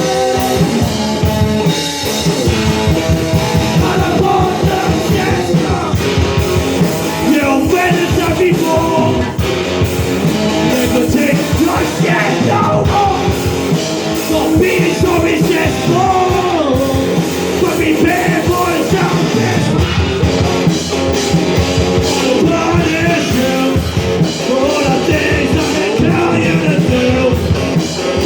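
Punk rock band playing live: drums and guitars with singing, loud and unbroken throughout.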